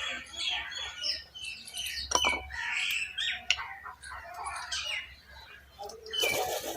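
Several birds calling, many short sharp calls following and overlapping one another, with a loud burst of calls near the end.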